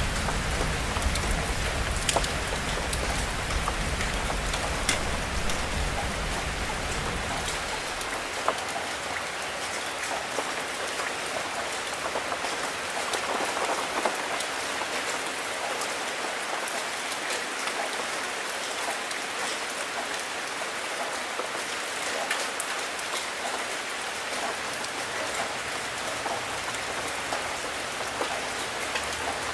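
Steady rain falling on leaves and other surfaces, with many sharp individual drop hits. A low rumble of distant thunder dies away about eight seconds in.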